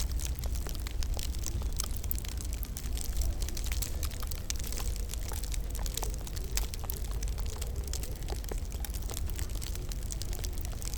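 Wood fire crackling in a fireplace: many irregular snaps and pops over a steady low rumble.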